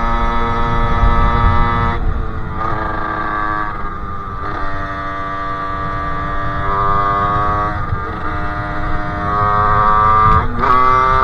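Sherco 50cc two-stroke engine with a KRM expansion exhaust, riding at a steady note that drops in steps as the revs fall, then climbs again after a short break near the end, as on a gear change and acceleration. Steady low rumble of wind on the microphone underneath.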